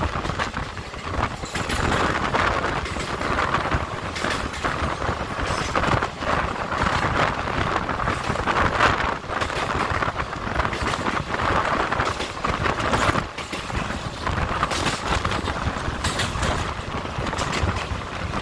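Doon Express passenger train running across the Son river bridge: the coaches give a steady rumble and rattle, with frequent clatter of the wheels on the rails.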